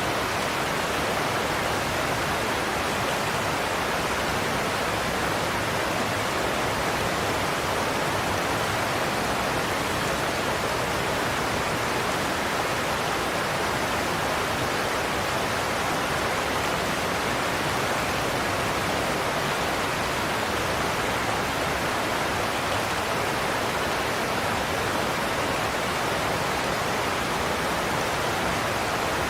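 Godafoss waterfall: a large cascade of water falling over a cliff, a steady, even rush of water with no breaks.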